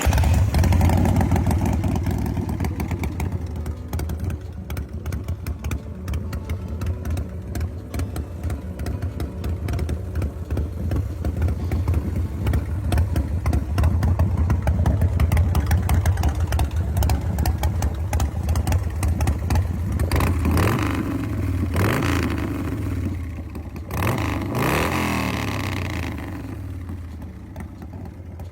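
Motorcycle V-twin engine of a 2002 Kraft Tech hardtail chopper with a 96-cubic-inch Evo motor, running steadily at idle, then revved up a few times about two-thirds of the way in.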